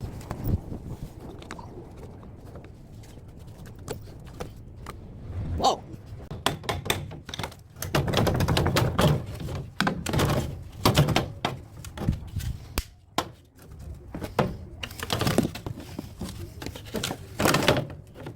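Irregular metal knocks, clanks and scraping from hand tools taking apart a scrapped air-conditioner outdoor unit: scattered taps at first, then denser bouts of clatter in the second half.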